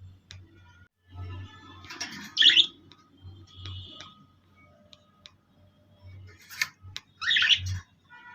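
Pet birds giving short chirps and squawks, loudest about two seconds in and again near the end, with a few sharp clicks between.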